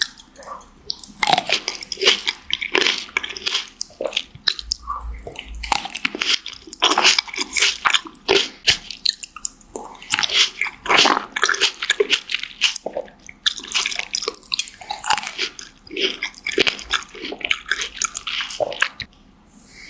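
Chewing and biting fresh fruit: wet, juicy mouth sounds with crisp crunches and squishes, coming in quick crackly clusters with short pauses between.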